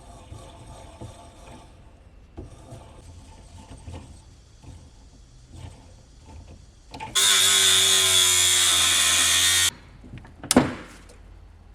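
Workshop handling of metal parts with light clicks, then a power tool runs for about two and a half seconds, starting and stopping abruptly, followed by a single sharp knock.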